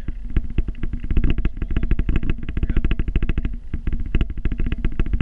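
Vehicle engine running steadily with a fast, even clatter, about ten knocks a second, while snow is plowed.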